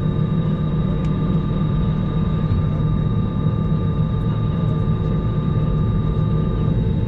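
Steady low rumble and hum inside the cabin of an Airbus A321 on the ground, with several constant tones. A thin high whine cuts off near the end.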